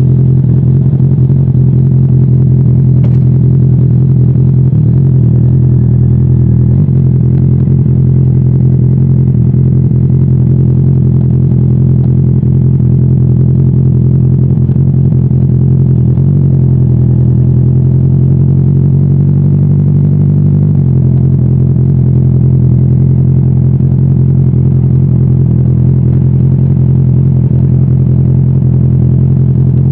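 Motorcycle engine running loud and steady at cruising speed. It holds an even pitch, with only slight changes in engine speed now and then.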